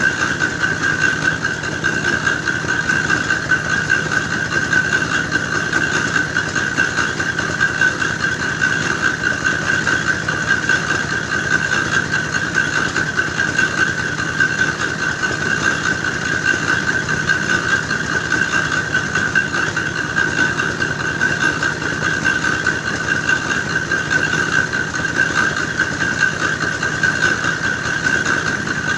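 Engine-driven clay grinding machine running steadily, grinding soil into dough for red bricks: a fast, even engine rhythm with a steady high-pitched whine over it.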